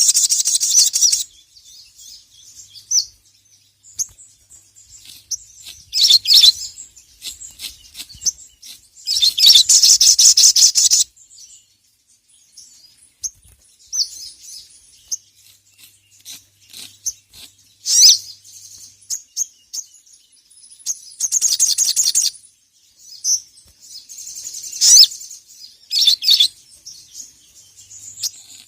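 A sogon (sogok ontong) sunbird singing hard. Bursts of rapid high-pitched chattering trills, each a second or two long, alternate with single sharp chirps. This is the loud challenging song with which the bird calls out to a rival.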